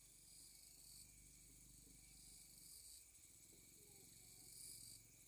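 Faint chorus of insects trilling steadily at a high pitch, over near silence.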